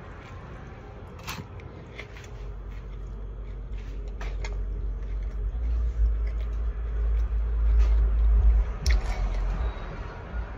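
A person biting into and chewing a BLT sandwich on toasted bread, close to the microphone, with a few sharp crunches and smacks spread through. Under it a low rumble swells over several seconds and drops away near the end; it is the loudest thing.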